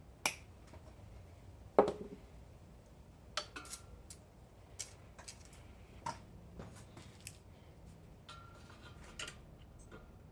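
Metal tools and parts clinking and knocking as they are handled, at irregular intervals, with one loud knock about two seconds in that rings briefly.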